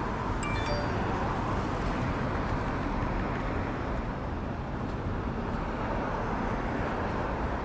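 Steady outdoor background noise with a low rumble, like street traffic, and a brief faint high chirp about half a second in.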